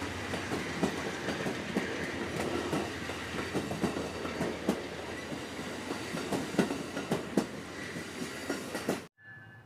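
Train rolling past on the tracks, its wheels clacking irregularly over the rail joints over a steady rumble. The sound cuts off suddenly about nine seconds in.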